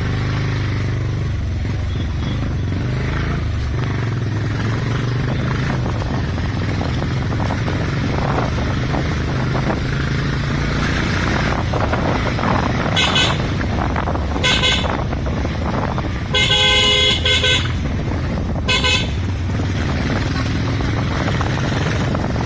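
Motorcycle riding along with a steady engine drone and road noise. A vehicle horn honks briefly twice, then gives one longer blast of about a second, then a final short honk.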